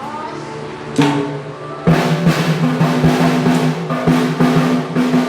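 Drum kit being struck: one hit about a second in, then a run of strokes at roughly two to three a second, over a steady held musical tone.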